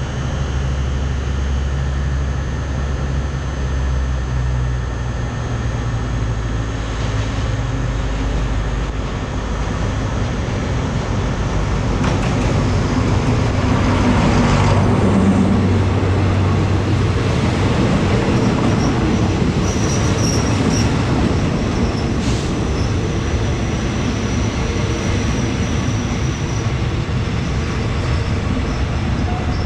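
Diesel locomotive passing close by, its engine loudest as it goes past about halfway through. The passenger coaches then roll by with steady wheel and rail noise and a thin high wheel squeal in the second half.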